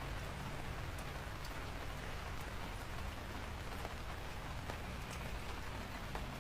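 Steady rain falling: an even hiss with scattered sharp ticks of individual raindrops.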